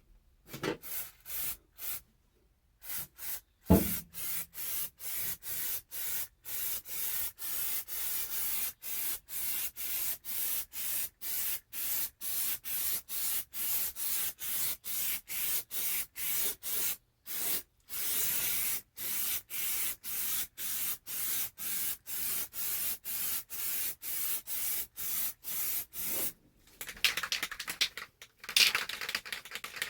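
Steady back-and-forth hand strokes rubbing or sanding the bare metal floor of a car stripped of its carpet, about two strokes a second with a brief pause in the middle. Near the end the strokes give way to a rougher, louder rattling.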